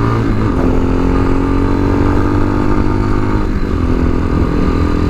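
Tao Motor TBR7 dual-sport motorcycle's single-cylinder engine running steadily under way, its note shifting slightly in pitch a couple of times.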